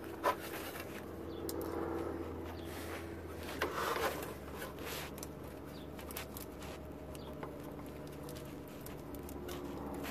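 Faint plastic clicking and scraping as the AC compressor's old electrical connector is wiggled and pried at by hand, with a sharp click about a third of a second in and a cluster of clicks around four seconds in. The connector is stuck from age and will not release yet. A low steady hum sits underneath.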